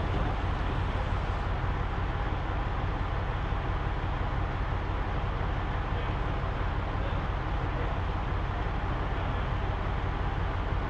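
Big rig's diesel engine running steadily with a low, even rumble, heard from inside the truck cab.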